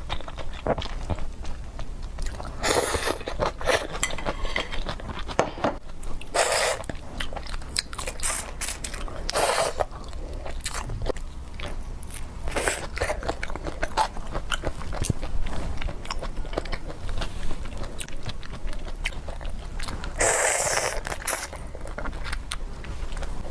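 Close-up eating of seafood: steady chewing and crunching with many small sharp clicks, and a few longer, louder bursts of noise. A low steady hum sits underneath.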